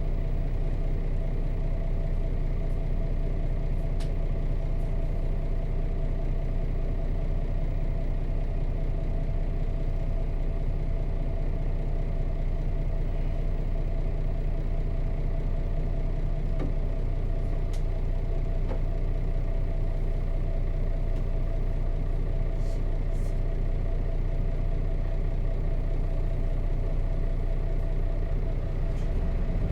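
Nissan Diesel FE6 six-cylinder diesel of a KC-RM211GSN bus idling steadily, heard from inside the bus.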